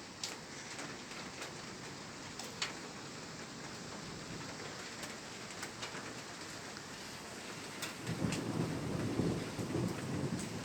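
Rain falling steadily in an even hiss, with scattered sharp taps of single drops. About eight seconds in, a louder low rumble comes in under the rain.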